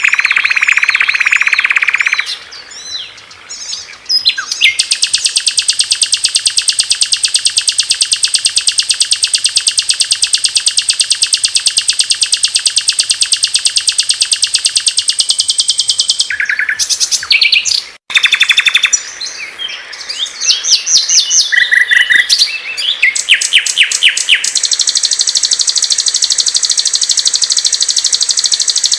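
Small songbirds singing, spliced from several recordings: long, very fast, even high-pitched trills alternating with varied chirps and short trills, with an abrupt cut about 18 seconds in.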